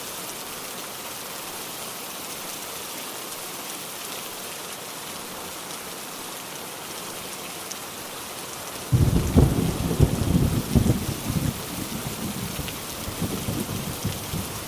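Steady rain falling, then about nine seconds in a sudden loud crack of thunder that rolls on as a low rumble, fading toward the end.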